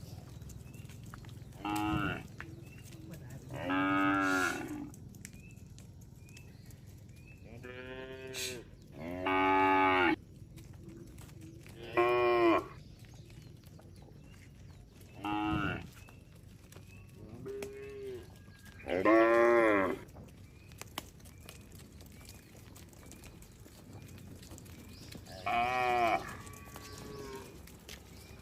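A herd of cattle mooing: about nine separate calls at irregular gaps, each lasting roughly half a second to a second and a half, several sliding down in pitch.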